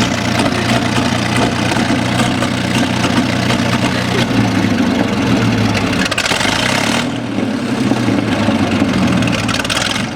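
Panther A tank engine running, with a deep, steady note. The engine speed shifts about six seconds in, then it settles again.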